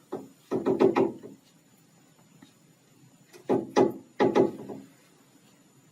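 A woodpecker pecking at a window: two bursts of rapid knocks, one at the start and another about three and a half seconds in.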